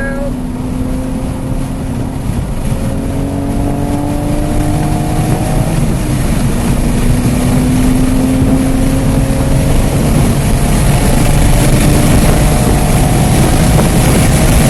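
Porsche engine under acceleration heard inside the car, its pitch climbing slowly, dipping once about six seconds in and climbing again. Wind and road noise grow steadily louder as the car gains speed.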